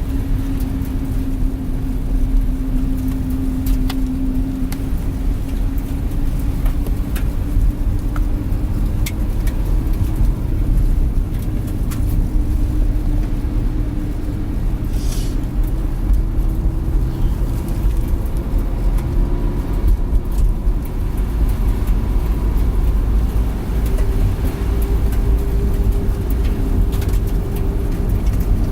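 Van driving, heard from inside the cabin: a steady low rumble of engine and road noise, with an engine hum that drifts slowly in pitch and rises a little near the end.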